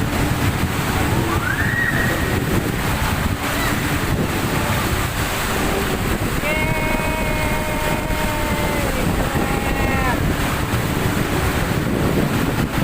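Jet ski ride: a steady rush of wind buffeting the microphone over splashing water. A long, high held tone sounds from about six and a half to nine seconds in, and a shorter one near ten seconds.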